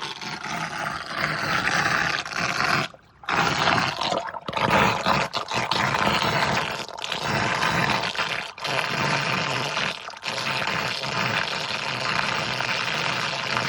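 Rainwater rushing and pouring as it drains off a flooded flat roof through the opened outlet, a steady splashing rush that cuts out briefly about three seconds in.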